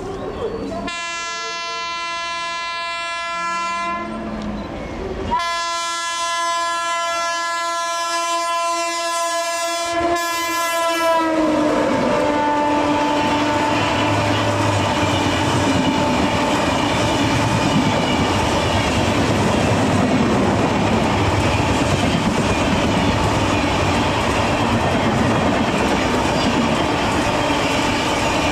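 Express train's locomotive horn sounding two long blasts, the second dipping slightly in pitch as the locomotive passes at speed. Then the steady rush and clickety-clack of the coaches running past.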